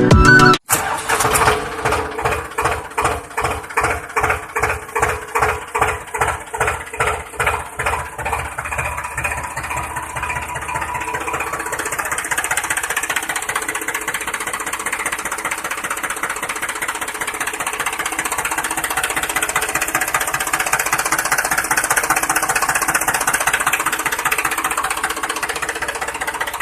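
A tractor engine chugging, slowly at first at about two beats a second, then quickening until the beats blur into a steady run.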